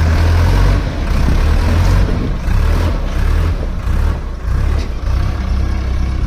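Powertrac tractor's diesel engine running hard under heavy load, its low drone surging and dipping every second or so, as it tries to pull a stuck, fully loaded sugarcane trolley.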